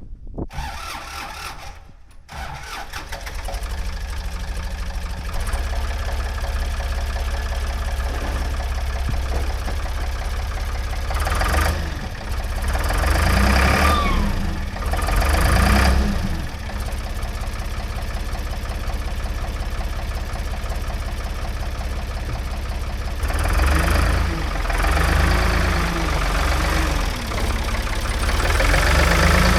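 Ford 555 backhoe's diesel engine starts just after the opening and settles to a steady running rumble. It is revved up and down twice as the machine is worked, once about a third of the way in and again near the end.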